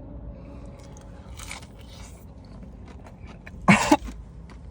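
A person chewing a bite of crispy fried chicken tender. A short, loud vocal burst, like a cough, comes a little under four seconds in.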